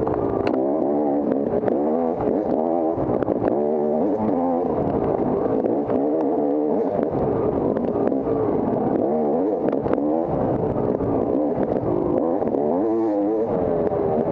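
Off-road dirt bike engine revving up and down without pause, its pitch rising and falling every second or so as the throttle is worked over rough ground, with a few sharp knocks now and then.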